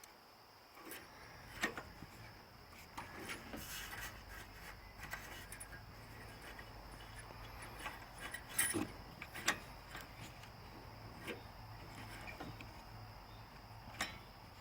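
Scattered small metallic clicks and taps from hands working the carburetor choke and throttle linkage and cable of a small Subaru Robin engine, with a few sharper knocks, over a steady low hum that starts about a second in.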